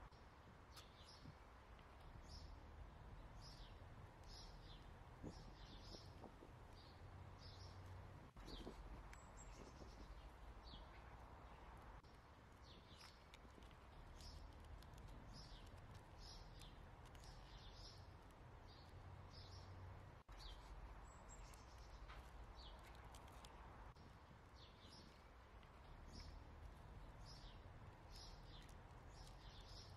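Faint high chirps of small birds, one or two a second, over a low steady hum.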